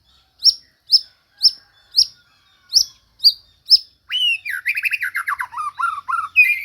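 White-rumped shama (murai batu) singing: a series of short, sharp upward-swept whistles about twice a second, then from about four seconds in a fast run of trills and falling phrases, the rapid-fire 'tembakan' bursts.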